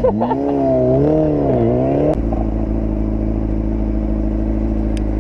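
Motorcycle engine revved: the pitch jumps up from idle and swings up and down a few times as the throttle is worked, then drops abruptly back to a steady idle about two seconds in.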